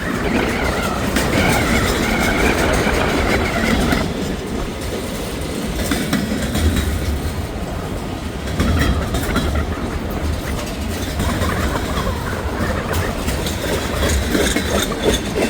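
Freight cars of a long CSX train rolling past with a steady rumble and repeated clacks and knocks of wheels over the rails, with a squeal in the first few seconds. Some of the knocking comes from flat spots on the wheels, and there is a bearing problem, which the railfan says can be heard.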